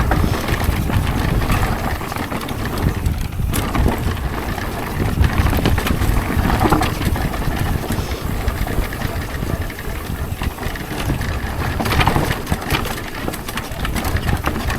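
Mountain bike descending a dirt jump trail: wind rushing over the microphone and tyres rumbling on the dirt, with frequent short rattles and knocks from the bike over bumps.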